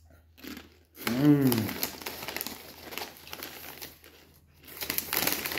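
Potato chip packet crinkling and rustling as chips are taken from it, in bursts with a louder stretch near the end. A short hummed voice sound about a second in.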